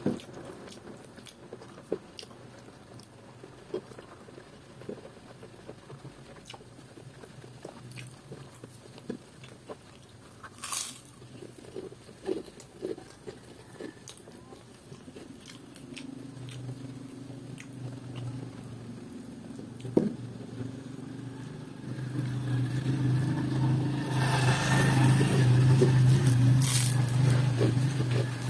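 Close mouth sounds of eating by hand: chewing and lip smacks on rice, young jackfruit in coconut milk and fried salted fish, with small scattered clicks. From about halfway a low steady motor hum builds, rising sharply near the end to become the loudest sound.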